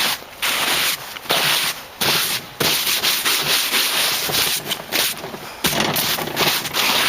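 Irregular bursts of rough rubbing, scraping noise, each starting and stopping abruptly and lasting about half a second to a second.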